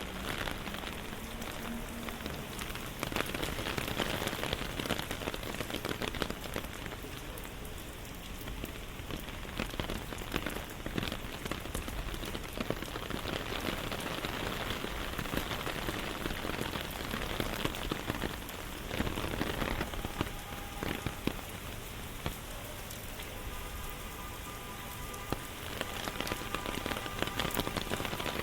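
Steady rain falling, with a dense patter of many small drop hits close by.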